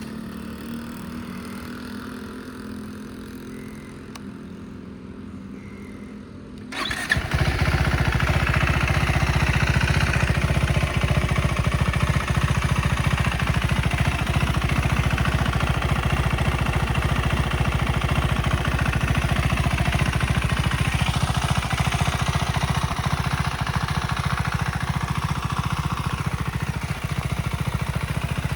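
KTM 390 SMC R single-cylinder engine on its stock exhaust starting up about seven seconds in, after a quieter low hum. It then runs steadily with a fast, even exhaust beat.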